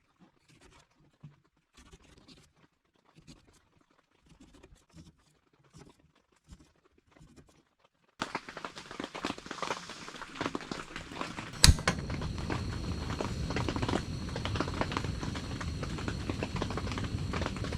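Faint small scratching and tapping, then about 8 seconds in a pot of canned-saury kimchi stew suddenly comes in bubbling hard over the burner, a dense steady crackle, with one sharp clack a few seconds later.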